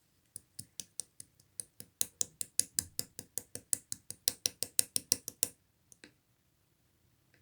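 Blue clear slime being pressed and squished by hand, making a quick run of crisp clicking pops, about five a second, that stops about five and a half seconds in, followed by two last pops.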